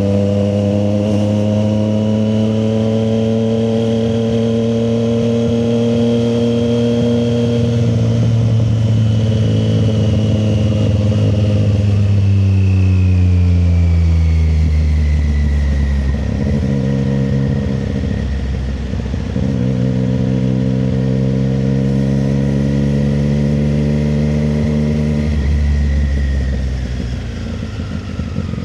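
Triumph Street Triple 765 RS's inline three-cylinder engine running under way. It pulls up steadily in pitch, winds down as the bike slows, then pulls up again and drops back off near the end.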